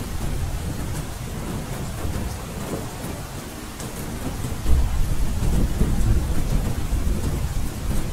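Steady gentle rain with low thunder rumbling underneath; the rumble grows louder a little over halfway through.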